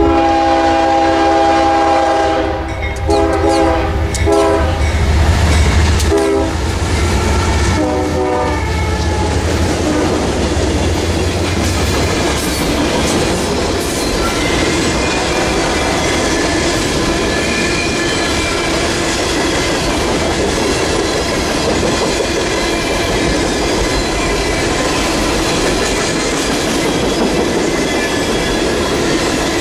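A diesel train's multi-tone air horn sounds several blasts, the first long, over a heavy engine rumble as the locomotive passes. The horn stops after about nine seconds and the cars run by with steady wheel clatter and faint wheel squeal.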